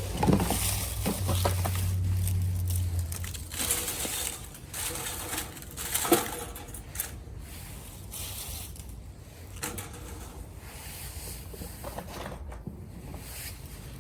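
Wood fire burning in a small cast-iron tabletop grill, crackling with irregular sharp pops over a soft hiss. A low hum runs under the first few seconds.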